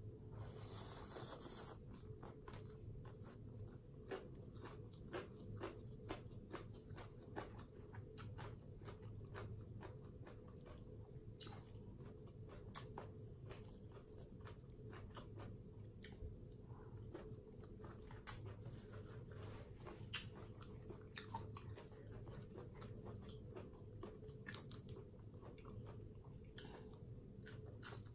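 Close-up chewing and mouth sounds of someone eating Thai papaya salad with rice noodles and red clams, with many small, sharp wet clicks and crunches scattered throughout. A brief rushing noise about a second in.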